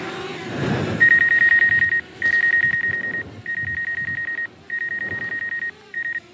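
Electronic warning beeps: one high tone pulsing rapidly in bursts of about a second, five times with short gaps, starting about a second in. A faint wavering hum runs underneath.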